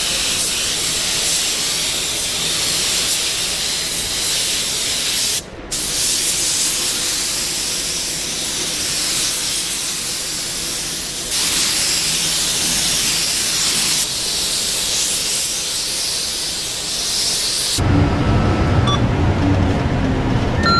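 A loud, steady hiss like a jet of air or spray, cut off and resumed several times. Near the end a different, fuller and lower sound takes over.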